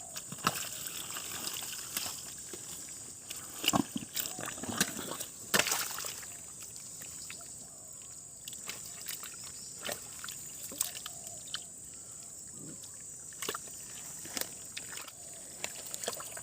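Shallow stream water sloshing and trickling as hands work through an eel hole, with irregular splashes and knocks, the loudest about four and five and a half seconds in, over a steady high hiss.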